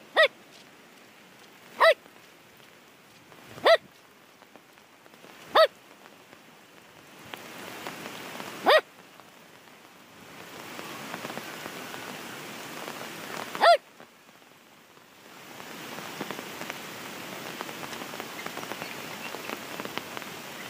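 Rain falling, a steady hiss that sets in about seven seconds in and grows louder, with a short break near the fourteen-second mark. Over it, six short, clear single barks from an unseen animal, spaced two to five seconds apart.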